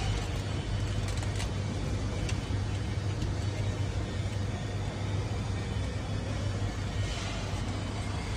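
Keg washing and CIP cleaning machine running, with a steady low hum, two short clicks in the first few seconds and a brief hiss about seven seconds in.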